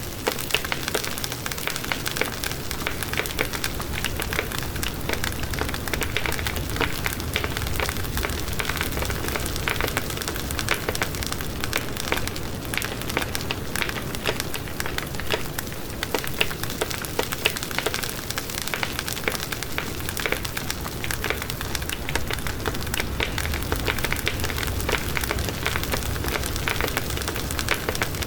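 Wood fire burning steadily with dense crackling and frequent small pops over a low rumble of flames.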